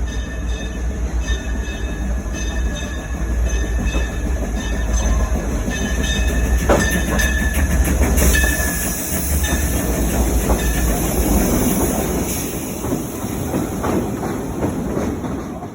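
A train rolling past: a heavy low engine rumble that fades after about nine seconds, with wheels knocking over rail joints and a thin wheel squeal.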